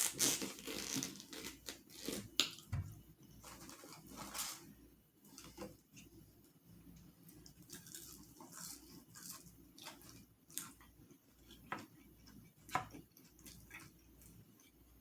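Close-up eating sounds: crackly biting, tearing and wet chewing and lip-smacking of fried food, in many short crackles that are denser and louder in the first few seconds, then sparser.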